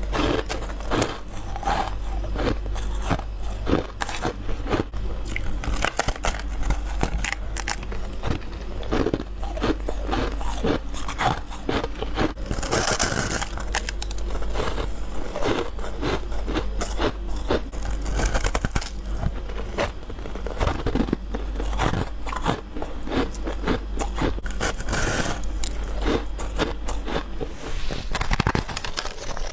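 Someone biting into and chewing freezer frost, a dense run of crisp crunches and crackles.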